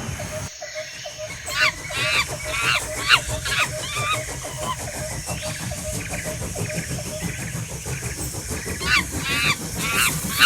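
Battery-powered Track Master toy train running, with a steady clicking about four times a second. Two bursts of shrill, honking squawks ring out over it, one early on and one near the end.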